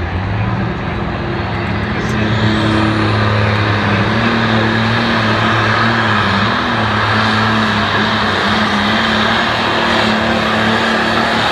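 Light pro stock pulling tractor's engine running hard and loud. About two seconds in it gets louder and a thin high whine climbs in pitch, then it holds steady with a slight waver.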